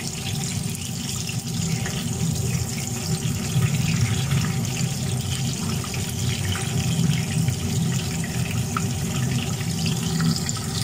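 Minced-meat kababs sizzling in hot oil in a frying pan, a steady crackling hiss from frying over low-medium heat so they cook through to the centre. A steady low hum runs underneath.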